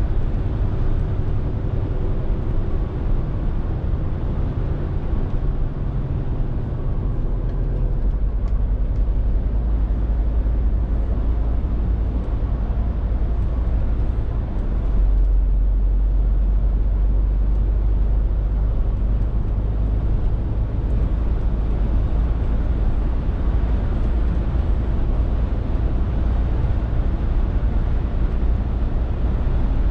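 Scania R450 lorry's six-cylinder diesel engine running under way, a steady low rumble with road noise. About eight seconds in the engine note shifts lower, and from about fifteen seconds the deep rumble grows heavier.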